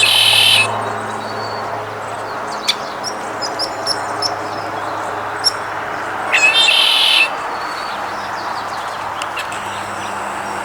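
A male wild turkey gobbling twice, each gobble under a second and about six seconds apart, with a few faint small-bird chirps between them.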